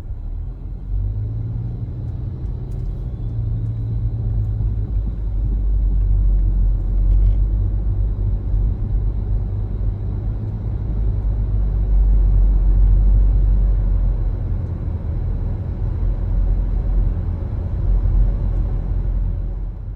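A car being driven: a steady low rumble of road and engine noise that swells and eases slightly.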